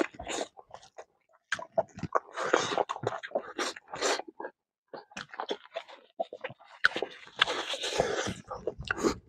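Close-up mouth sounds of a man chewing a handful of rice with kidney beans: wet smacking and clicking in irregular bunches, with short pauses between them.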